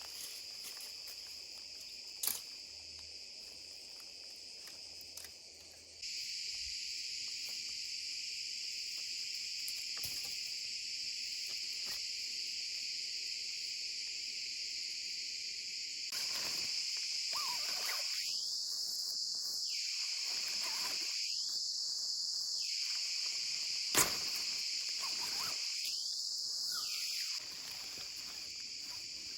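Steady high-pitched chorus of insects, crickets, in a forest. It gets louder abruptly twice and drops near the end, with two single sharp clicks.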